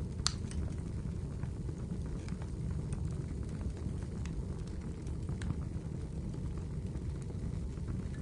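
Wood fire burning in a fireplace: a steady low rumble of flames with scattered crackles and pops, one sharper pop just after the start.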